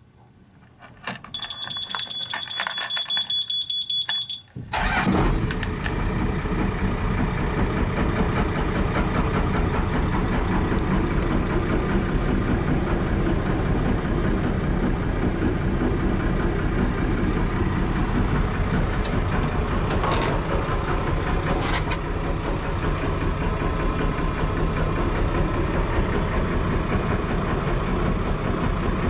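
A high, steady electronic warning buzzer sounds for about three seconds. The UF33 cruiser's inboard diesel engine then fires about four and a half seconds in and settles into a steady idle.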